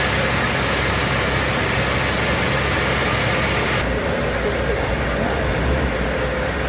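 Sawmill machinery running steadily, a loud even mechanical noise whose high end drops away abruptly about four seconds in.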